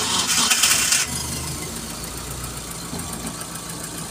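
Mitsubishi T120SS four-cylinder petrol engine started: a loud burst for about the first second as it fires, then it settles into a steady idle. The engine runs heavy, the owner's complaint being lost power and sputtering, which the mechanic suspects comes from a misfiring cylinder.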